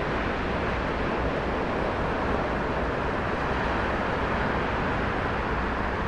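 Steady rushing noise of ocean surf breaking along a beach.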